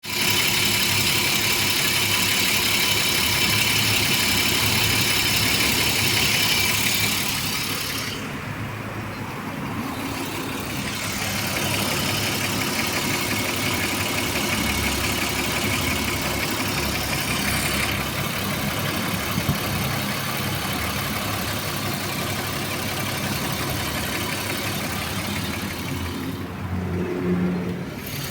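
BMW E34's M50B25 2.5-litre inline-six running at idle with the tapping of hydraulic lifters, a sign of lifters not holding oil pressure. The sound drops in level about eight seconds in.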